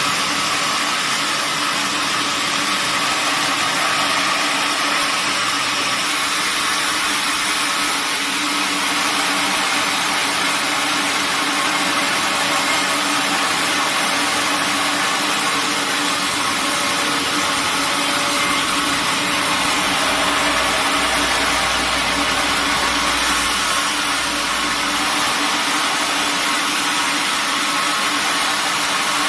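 Sawmill machinery running steadily: a motor and saw giving a loud, even noise with a constant hum.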